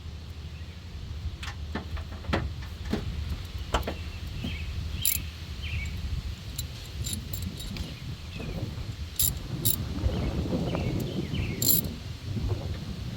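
Metal hand tools and sockets clinking and being handled, with several sharp metallic clicks and pings, some rustling, and a low rumble of wind on the microphone.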